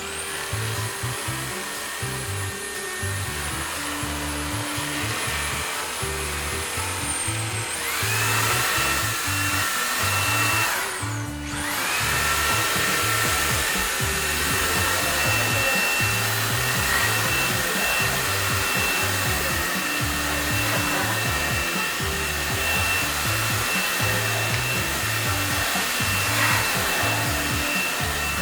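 Dreame Z10 Station cordless vacuum's motor running with a steady high whine. It rises to a higher speed about eight seconds in, dips and cuts out briefly a few seconds later, then starts again and runs steadily. Background music with a beat plays underneath.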